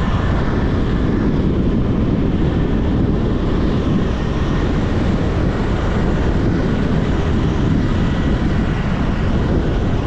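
Steady, loud rush of riding noise from a moving motorcycle: engine and wind on the microphone blended into an even low-heavy din.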